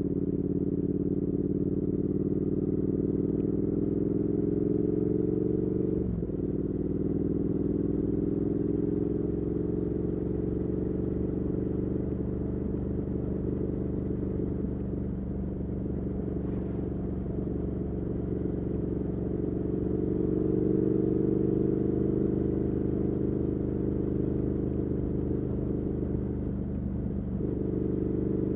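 Triumph Speed Twin 1200's parallel-twin engine running through an aftermarket Weslake Shorty Pro exhaust under way. The engine note climbs, drops sharply at an upshift about six seconds in, then pulls up again, with another brief dip near the end.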